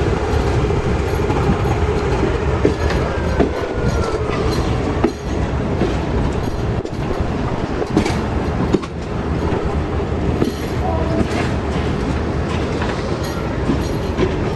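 Passenger train running along the track: a steady rumble with irregular clacks of the wheels over rail joints, and a faint falling wheel squeal about three seconds in.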